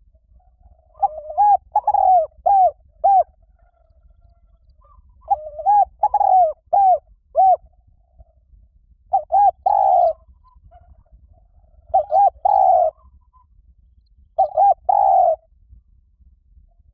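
Spotted dove cooing: five phrases of several quick coo notes each, repeated about every four seconds.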